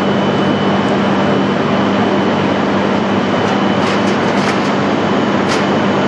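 E6 series shinkansen creeping slowly with its nose open for coupling to an E5: a steady running hum with a low tone and a faint high whine. A few faint ticks come around four and five and a half seconds in.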